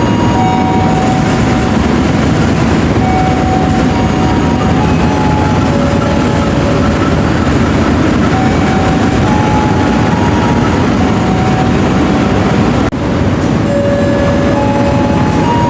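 Loud, steady rumble and hiss of a running train. A faint tune of single held notes plays over it, and the sound drops out briefly about thirteen seconds in.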